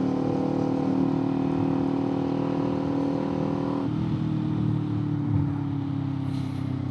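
Kawasaki Z400's parallel-twin engine and exhaust running under way, holding a steady note that sags slightly, then changing tone about four seconds in and falling slowly in pitch.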